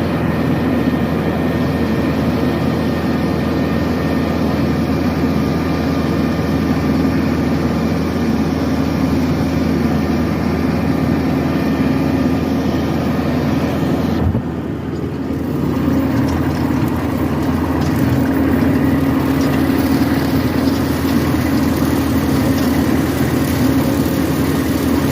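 LS compact tractor's diesel engine running steadily under mowing load, with a brief dip in level about halfway through before it carries on.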